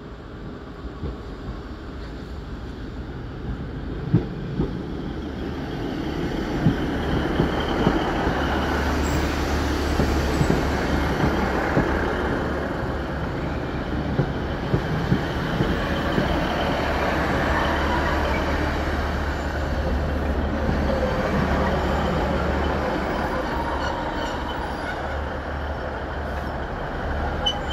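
A Northern Class 150 diesel multiple unit leading a Class 156 runs in along a station platform. Low diesel engine drone and running noise grow louder over the first several seconds, then hold steady as the carriages pass. Wheels click over the rail joints, with an occasional faint high squeal.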